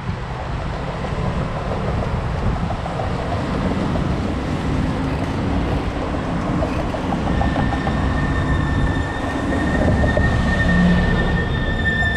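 A tram rumbling and rattling past on its rails, with a steady high-pitched wheel squeal setting in about seven seconds in and holding to the end. Wind buffets the microphone.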